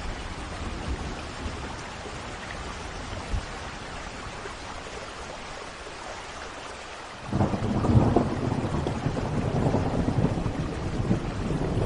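Thunderstorm: steady rain, then a clap of thunder breaks in suddenly a little past halfway and rolls on, rumbling louder toward the end.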